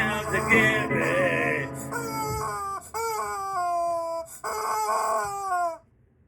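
Chicken calls: several drawn-out squawks, each sliding down in pitch, taking the place of the sung melody and cutting off shortly before the end.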